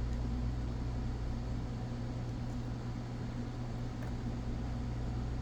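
Steady low hum over an even hiss, with a faint click about four seconds in.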